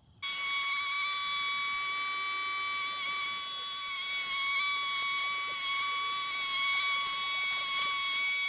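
Compact tractor running, with a steady high-pitched whine that cuts in sharply just after the start.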